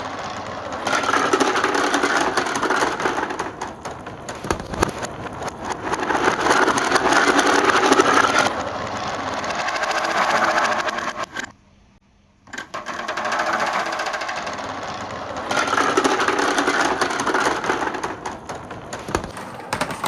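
Many glass marbles rolling and clattering through plastic PVC pipe and rain gutter: a dense, continuous rattle that swells and eases in waves. It drops out briefly about midway.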